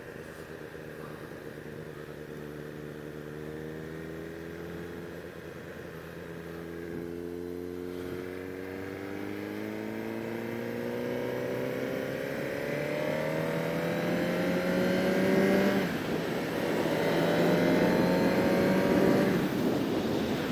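Sport bike engine accelerating. Its pitch climbs steadily and grows louder, drops abruptly at a gear change about 16 seconds in, climbs again, and falls once more near the end.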